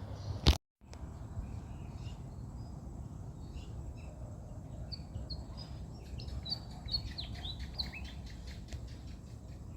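Small birds chirping, a run of short high chirps between about five and eight seconds in, over a steady low background rumble. A sharp click about half a second in is followed by a moment of dead silence, like a cut in the recording.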